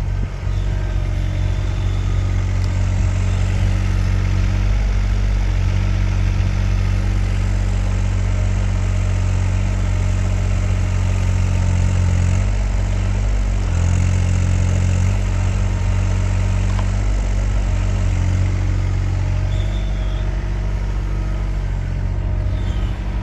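Kymron XH20D mini-excavator's engine running steadily, its low note shifting and dipping now and then, most around the middle, as the hydraulics are worked.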